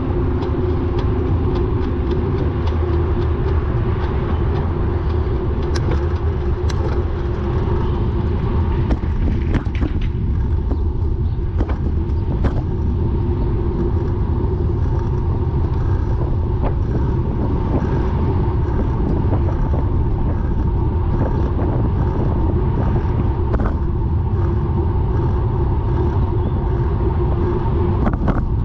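Bicycle being ridden, with steady road and wind rumble and scattered sharp clicks, clearest over several seconds in the first half. This is a rotational clicking from the drivetrain that the rider fears is a worn bottom bracket.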